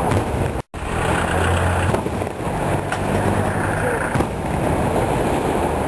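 Fireworks going off: a dense, continuous crackle with a few sharper bangs. The sound cuts out completely for a split second just under a second in.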